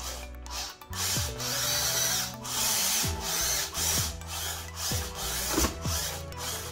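The 370 geared DC motors of a 4x4 RC car whir in repeated short bursts of throttle, about once a second. Each burst ends in a falling whine as the motors spin down.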